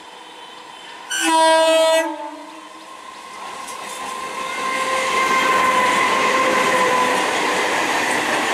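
A train horn sounds one blast of about a second, about a second in, then an electric multiple-unit (EMU) local train approaches and runs past, its wheel-and-rail rumble growing louder with a steady whine over it.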